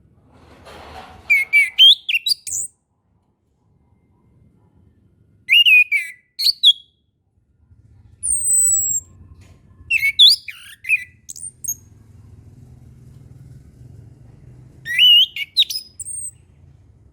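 Orange-headed thrush singing: four short phrases of quick rising and falling whistles, a few seconds apart, with a single high falling whistle between the second and third phrase.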